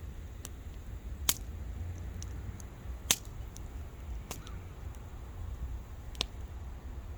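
Wood campfire crackling: scattered sharp pops and snaps from the burning wood, two of them much louder, over a steady low rumble.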